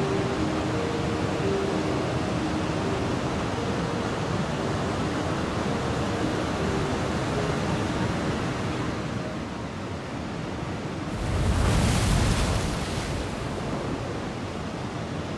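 Ocean surf making a steady rushing noise, with one wave surging louder about two-thirds of the way through.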